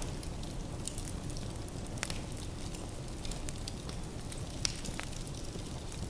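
Wood fire burning in a fireplace: a steady low rumble of flames with scattered crackles and pops from the logs, a sharper pop about two seconds in and another near the end.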